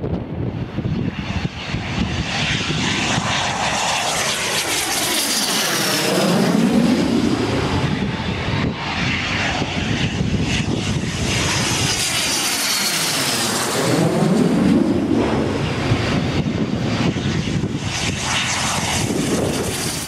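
Military aircraft flying low past the crowd twice, each pass swelling to its loudest about six and thirteen seconds in, with the engine noise sweeping down in pitch as it goes by.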